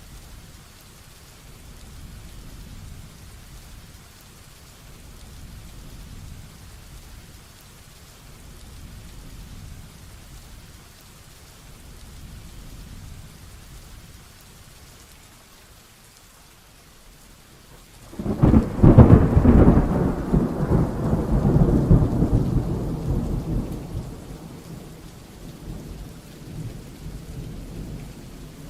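Heavy rain falling steadily with distant rumbling, then about 18 seconds in a sudden loud thunderclap that rolls on for several seconds and dies away.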